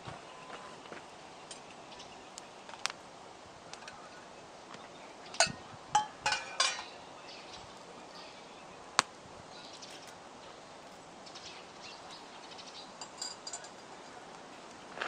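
Wood campfire crackling with scattered small pops, a few louder sharp cracks about five to seven seconds in and a single sharp snap about nine seconds in. Birds chirp faintly in the background.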